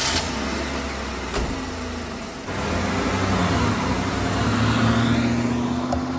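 Car engine running, then revving up about two and a half seconds in, its pitch climbing slowly before levelling off.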